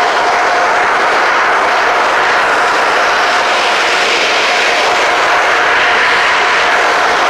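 Car wash machinery running: a loud, steady rushing noise with a thin steady whine.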